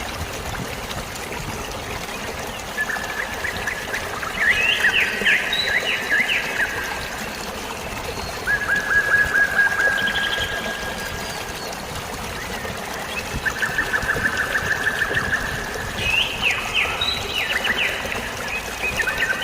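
Steady trickling, splashing water with songbirds over it, singing rapid trills of about two seconds, four times at intervals of a few seconds.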